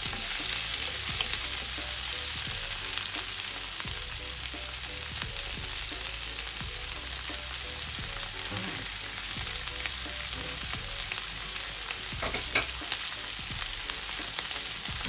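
Chopped onion, peppers and halved cherry tomatoes sizzling in olive oil in a frying pan: a steady hiss with small scattered crackles.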